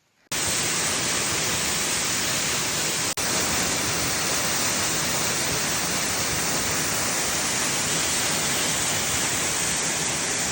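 Waterfall in a slate quarry, a loud, steady rush of falling water that cuts in suddenly just after the start, with a momentary dropout about three seconds in.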